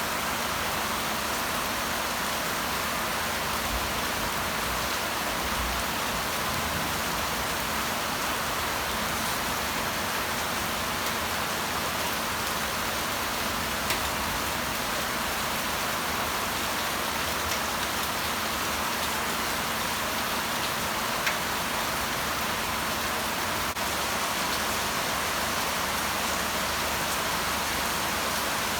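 Steady rain falling, an even hiss, with a single louder drop or tap about halfway through and another about two-thirds of the way in.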